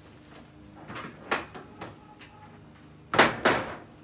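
Short scraping and knocking noises of things being shifted and set in place, the loudest a pair of scrapes a little after three seconds in.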